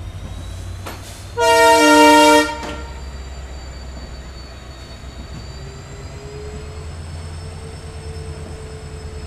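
Diesel locomotive's multi-tone horn giving one loud blast of about a second, over the steady low hum of the train's EMD WDP4 diesel engine. A fainter steady tone joins the hum about halfway through.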